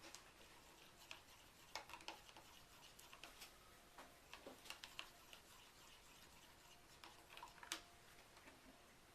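Faint, irregular light clicks and taps, a few of them louder.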